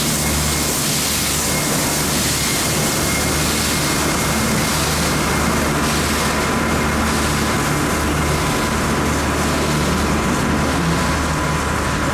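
Railway locomotive running steadily: a low engine hum with a thin high whine and a hiss over it.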